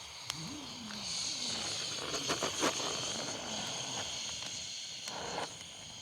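Wood fire hissing and crackling, the hiss swelling for a few seconds, with a quick cluster of sharp pops a little past two seconds in.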